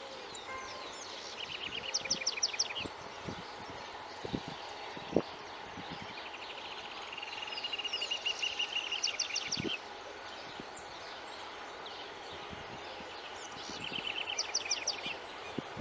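A songbird singing three short phrases of quick repeated high notes, each ending in a fast trill; the middle phrase is the longest.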